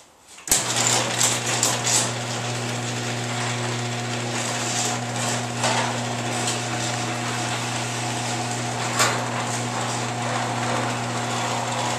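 Chamberlain garage door opener switching on with a click and running steadily with a low motor hum as it drives the door, with scattered rattles and clicks from the door along its track.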